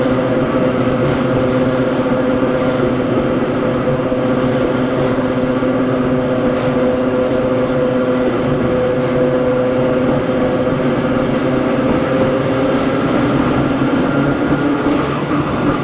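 Hakone Tozan Railway Moha 1 No.106 running, its nose-suspended SE121-A traction motors and gearing giving a steady whine at an even pitch over the rumble of the wheels. A higher tone joins the whine near the end.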